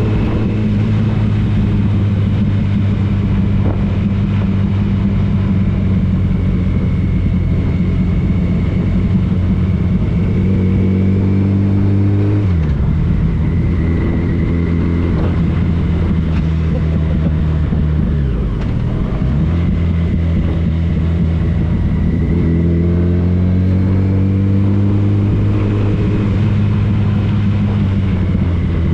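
Motorcycle engine running while riding, its note holding steady, then falling sharply about twelve seconds in. It dips and recovers briefly around the middle, and climbs and drops again in the last part as the speed and gear change.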